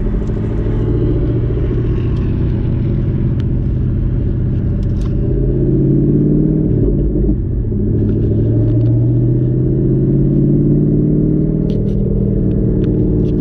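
Twin-turbo Ford Mustang Boss 302's 5.0-litre V8 running at low revs, its pitch dipping briefly about halfway through and then rising again.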